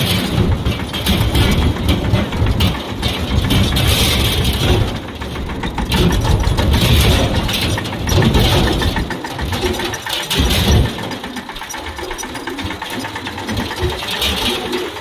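Tractor engine running with a rapid, even firing beat, louder for the first part and quieter from about eleven seconds in.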